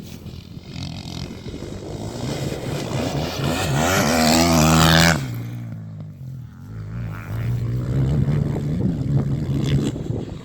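Motocross motorcycle engine revving hard as a bike comes past close by, rising to its loudest about halfway through and then dropping off sharply; another bike's engine builds up again in the second half.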